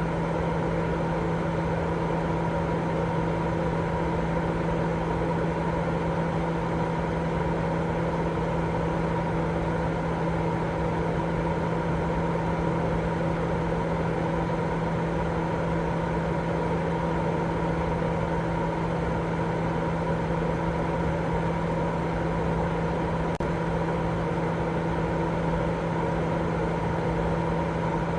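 Steady baby-sleep white noise: an even hiss over a low, constant hum, with no change in level or pitch.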